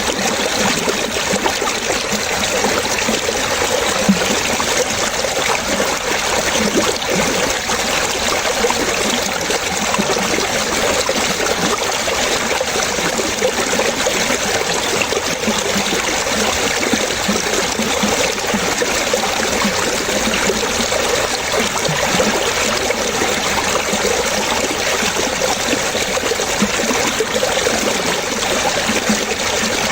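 Running water trickling and splashing steadily, like a small stream over stones.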